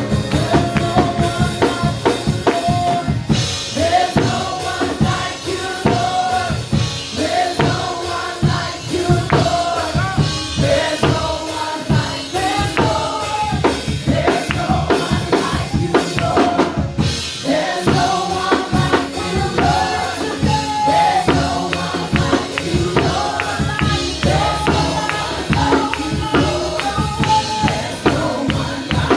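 Live worship music: a band with a full drum kit keeping a steady beat under voices singing a melody.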